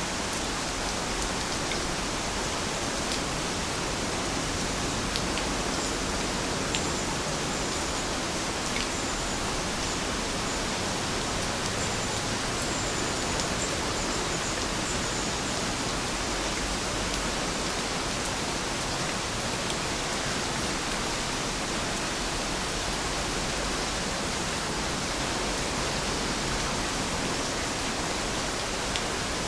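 Heavy rain falling steadily, an even hiss with occasional faint ticks of single drops.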